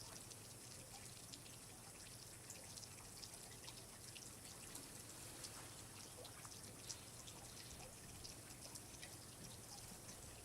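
Faint water dripping and trickling, with many small irregular drips over a soft steady hiss.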